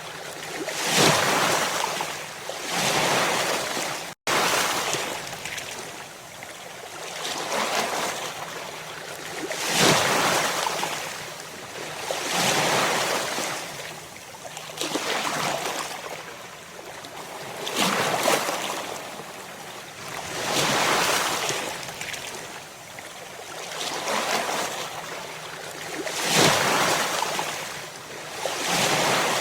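Ocean surf: waves breaking and washing in, each wash swelling and fading about every two to three seconds. The sound cuts out for an instant about four seconds in.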